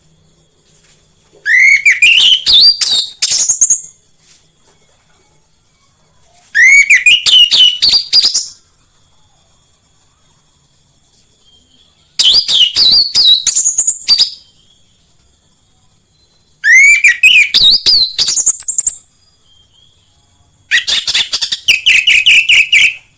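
Orange-headed thrush singing five loud song phrases a few seconds apart, each a quick run of notes climbing steeply in pitch; the last phrase ends in a fast rattle. A faint steady high hiss runs underneath.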